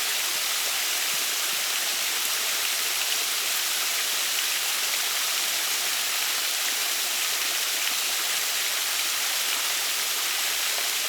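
Waterfall rushing: a steady, even splash of falling water.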